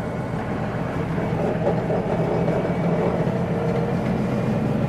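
Steady hum of a vehicle engine with road noise, running evenly throughout.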